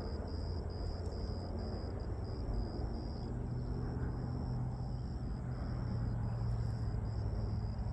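Outdoor background at a lake: a steady low rumble with a high, evenly pulsing chirp about two to three times a second.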